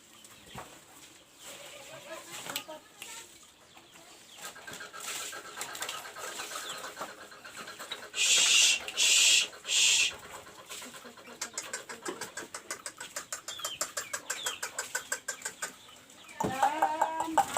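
A tame bird being hand-fed, with scattered clucking calls and three short, loud hissing bursts about halfway through. A fast run of ticks follows, and a louder pitched call comes near the end.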